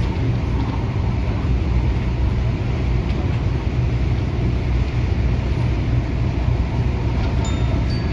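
Adtranz-CAF electric multiple unit train running at speed: a steady, deep rumble of wheels on the track.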